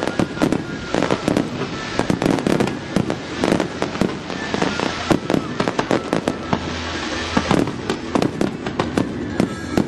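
Fireworks display: a dense, unbroken barrage of bangs and crackles from exploding aerial shells.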